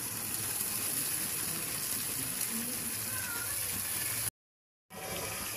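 Steady sizzle of onions and green chillies frying in hot oil and ghee in an aluminium pan as cumin seeds are tipped in. The sound cuts out abruptly for about half a second near the end.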